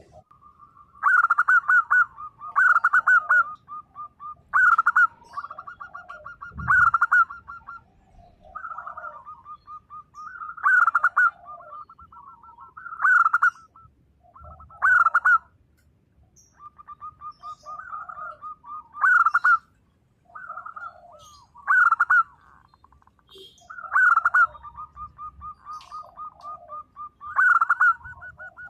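Zebra dove (perkutut) singing: loud staccato cooing phrases every two or three seconds, joined by runs of rapid, softer trilled notes.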